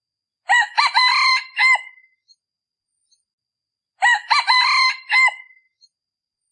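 Decoy junglefowl rooster (ไก่ต่อ) crowing twice, each crow about a second and a half long and the second starting about three and a half seconds after the first: the call used to lure wild junglefowl cocks.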